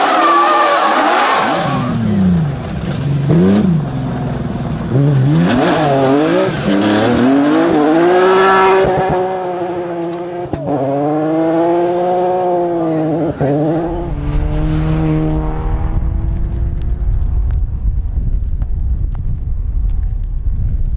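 Rally car engine revving hard, its pitch rising and falling over and over through throttle lifts and gear changes, after a short burst of noise at the start. About two-thirds of the way in a low steady rumble takes over and the engine tone fades away.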